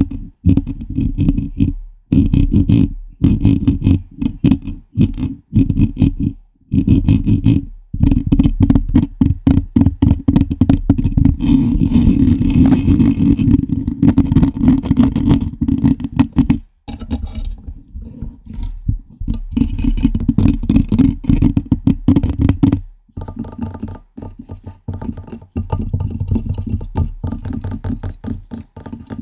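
Fingers scratching and tapping directly on a microphone: rapid runs of close, heavy-bottomed rubbing strokes and taps, broken by short pauses.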